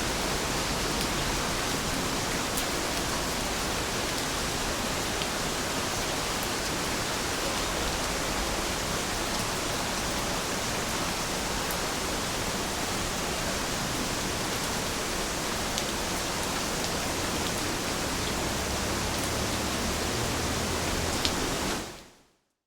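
Steady rain falling, an even hiss with a few faint drop ticks, fading out at the very end.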